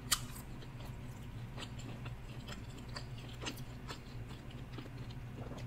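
Chewing a mouthful of deep-dish pizza close to the microphone: scattered small, soft mouth clicks over a low steady hum.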